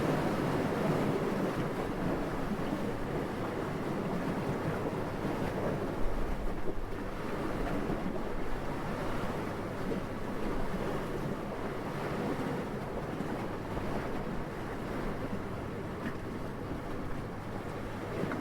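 Steady wind rushing, swelling and easing slowly, with a brief low thump about six seconds in.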